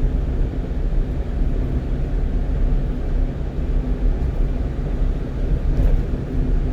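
Steady engine and road noise heard from inside the cab of a one-ton truck cruising at highway speed, a low rumble with a faint even hum.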